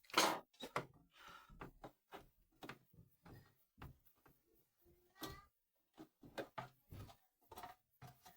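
Irregular clicks and knocks of hands handling and fitting parts of an opened electric sandwich toaster, the loudest knock right at the start and another a little after the middle.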